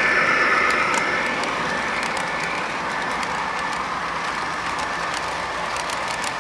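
O gauge MTH RailKing Imperial diesel locomotive running around the layout, its Proto-Sound 3.0 speaker playing diesel engine sound over the steady rolling noise of its wheels on the track, with scattered small clicks.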